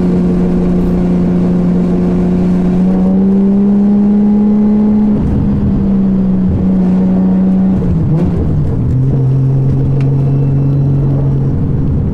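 Nissan Skyline R33 GT-R's RB26 twin-turbo straight-six running under way. Its note climbs slightly a few seconds in, then drops to a lower, steady note after an upshift about eight seconds in.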